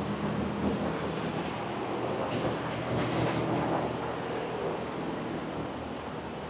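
Steady rumble of a vehicle in motion, a low engine hum under even road or track noise.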